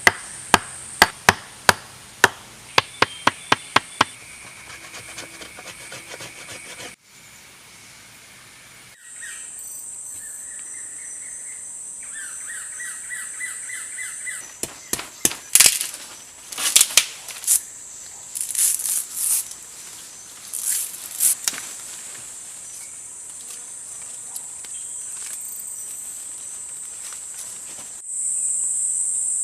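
Runs of sharp knocks of a tool striking wood, a few a second, over a steady chorus of crickets. A bird gives short rising trills between the two runs of knocks.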